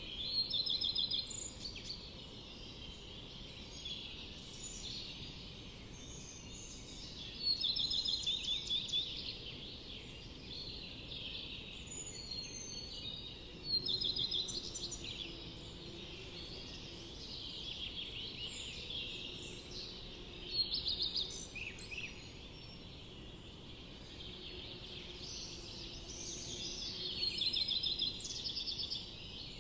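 Several forest birds singing and calling over each other. A song of rapid repeated notes comes in loudly about every six or seven seconds, over a faint steady hiss.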